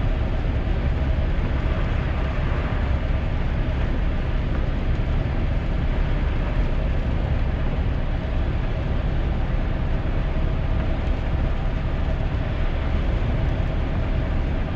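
Steady in-cabin driving noise of a 2001 GMC Sierra pickup on a wet road in heavy rain: a low road rumble under an even hiss of rain and wet tyres, with a faint steady hum.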